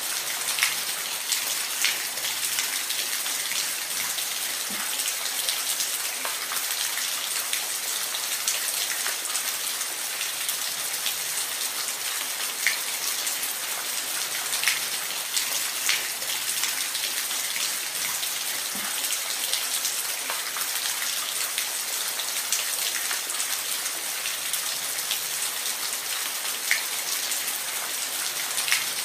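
Steady rain falling, a continuous hiss with single drops landing close by as sharp ticks scattered through it.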